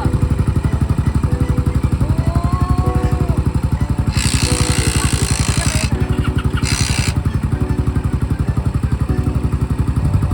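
Single-cylinder motorcycle engine running at a steady cruise, with a fast, even beat of exhaust pulses. A loud rushing hiss comes in about four seconds in for nearly two seconds, and again briefly a little later.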